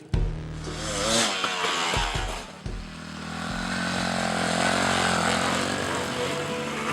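Dirt bike engine running with its pitch wavering as the throttle changes, then settling into a steady drone. A few low thumps come in the first few seconds.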